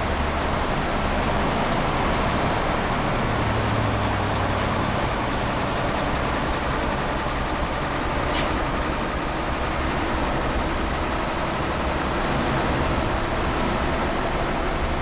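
Loaded tanker truck's engine running steadily with road noise as it drives, with two faint brief ticks about four and eight seconds in.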